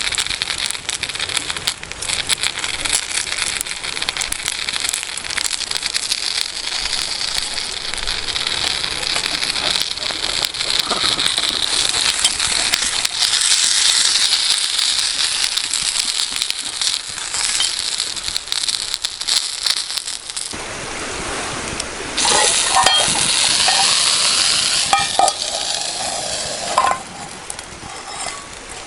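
Food sizzling in a frying pan over a campfire, a steady hiss with small crackles, and a few metal clinks of a utensil against the pan in the last third.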